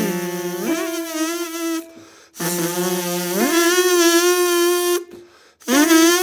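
Lip buzzing on a trumpet embouchure visualizer: a low note held, then slurred smoothly up an octave and sustained, twice, with two short breaths between phrases, the pitches sitting around low F and the F above.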